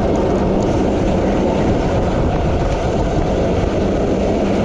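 Steady, loud rushing of wind on the microphone of a camera riding on a road racing bicycle at speed, mixed with road and tyre noise.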